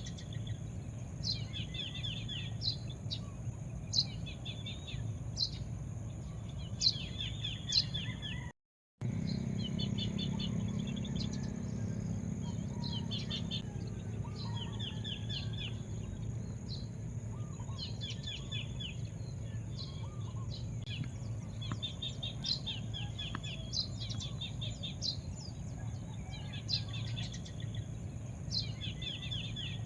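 Small birds chirping over and over, each phrase a sharp high note followed by a quick run of lower notes, against a steady low rumble and a steady high-pitched hum. The sound cuts out completely for about half a second around a third of the way in.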